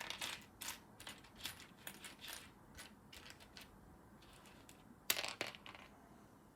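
Small plastic Lego pieces clicking and clattering as they are sifted through by hand, with a louder rattle of pieces about five seconds in.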